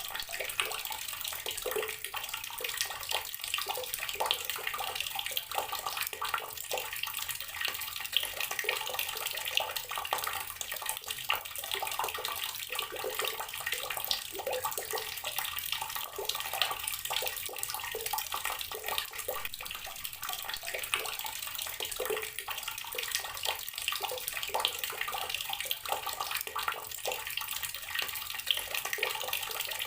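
Water from a running tap splashing steadily into a container of water, with a constant patter of small splashes.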